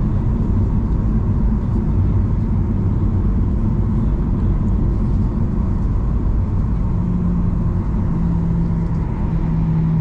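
Steady low rumble of Boeing 737-800 cabin noise, heard from a passenger seat. A steady low hum joins it about seven seconds in.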